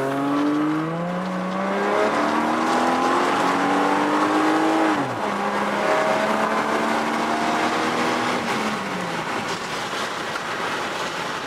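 Car engine heard from inside the cabin under hard acceleration with an automatic transmission: the engine note climbs, drops suddenly about five seconds in as the gearbox shifts up, climbs again, then falls away near the end as the throttle eases.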